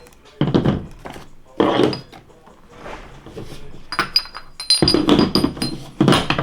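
A series of thunks with a few metallic clinks as boxes and parts are handled and set down on a table, most of them from about 4 seconds in.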